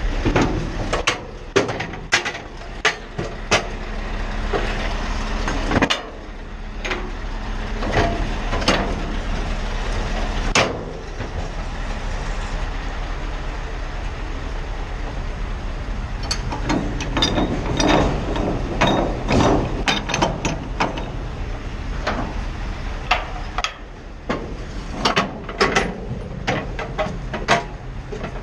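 Scania R520 V8 truck running with a steady low drone, with many irregular knocks and rattles over it throughout.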